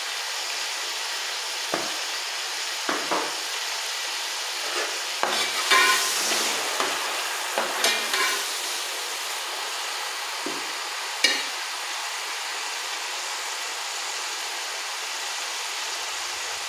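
Whole spices, fried onions and tomatoes sizzling in hot ghee in a large metal pot, a steady hiss. A metal slotted turner scrapes and clinks against the pot as they are stirred, with a run of scrapes around the middle and a single sharp clink about two-thirds of the way through.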